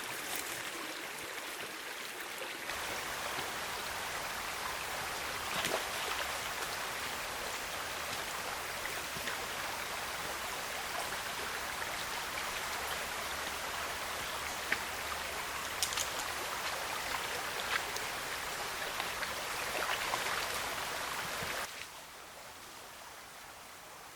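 Small river flowing: a steady rush of water with a few faint clicks. It drops away abruptly near the end.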